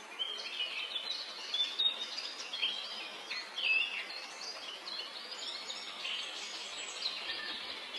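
Small songbird singing a busy run of short, high chirps and quick up-and-down whistled notes over a steady background hiss.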